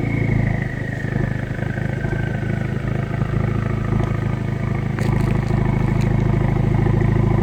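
2016 Ford Focus RS's 2.3-litre turbocharged four-cylinder running through a Scorpion aftermarket exhaust, easing down from a rev and settling into a steady low idle. A few sharp ticks come about five and six seconds in.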